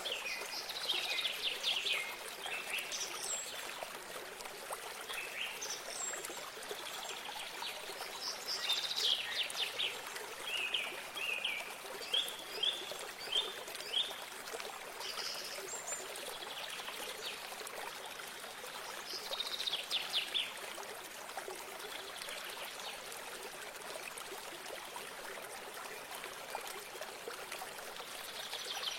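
Running water trickling steadily, with songbirds calling over it in short trilled phrases and chirps that come and go, busiest around a third of the way in.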